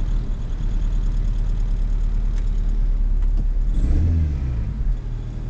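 1996 Toyota Corolla's 1.8 L 7A-FE four-cylinder engine idling roughly with a cylinder 1 misfire (code P0301). Its speed swells and drops back once, about four seconds in.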